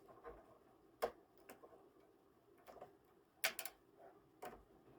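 Scattered light clicks and taps, with a quick double click about three and a half seconds in, as the Wi-Fi antenna connectors are unclipped from the Wi-Fi card of an Asus X550C laptop.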